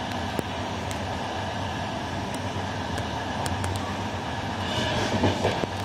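Steady running noise of a moving passenger train heard from inside the carriage, with a few light clicks and a louder stretch near the end.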